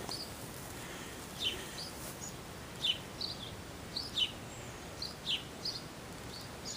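American robin calling: short, high chirps that slide downward, about a dozen of them at an uneven pace, over a steady outdoor hiss.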